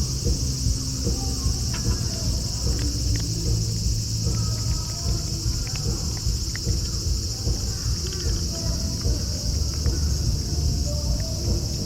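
Steady, high-pitched chorus of insects, crickets or cicadas, over a constant low rumble, with faint scattered small sounds in between.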